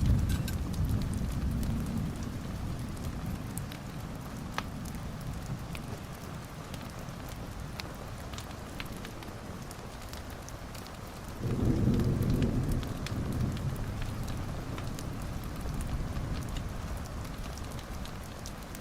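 Steady rain falling with scattered sharp drips or crackles, and two low rolls of thunder: one at the very start and one about eleven seconds in, each lasting a couple of seconds.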